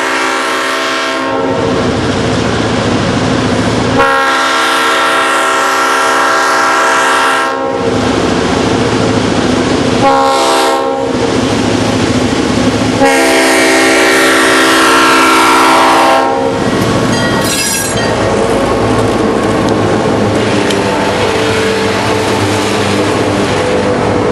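Diesel locomotive air horn, a chord of several tones. The end of one blast is followed by a long blast, a short one and another long one: the grade-crossing signal. Between and after the blasts the train runs by with a steady rumble and wheels clicking over the rail joints, and a brief high squeal comes about two-thirds of the way in.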